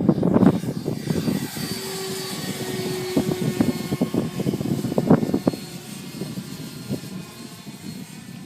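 90mm electric ducted-fan RC F/A-18 model jet flying past, its fan whine falling in pitch and fading away, with gusts of wind buffeting the microphone.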